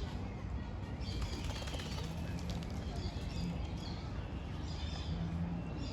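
Birds chirping at a feeding spot, with a brief flurry of wing flapping about two seconds in, over a steady low rumble.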